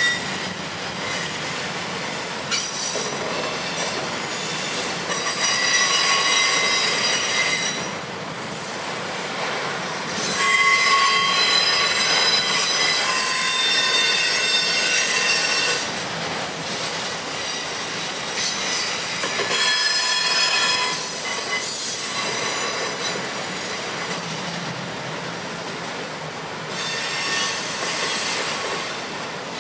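Freight train of enclosed autorack cars rolling past, wheels squealing on the rails in high-pitched stretches that come and go every few seconds over a steady rolling rumble.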